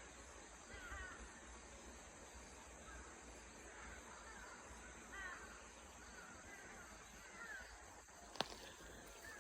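Faint bird calls repeating every second or so in a forest, over a steady high hiss, with one sharp click near the end.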